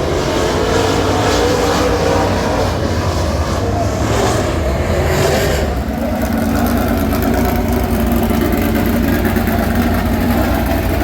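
Super Late Model's Ford 422 cubic inch V8 race engine heard from inside the car, running hard on track. About six seconds in the note eases to a lower, steadier drone.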